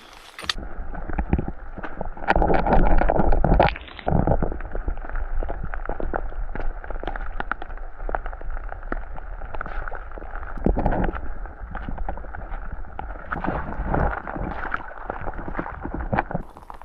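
Muffled gurgling and splashing of water, with many small irregular knocks and a louder stretch a couple of seconds in.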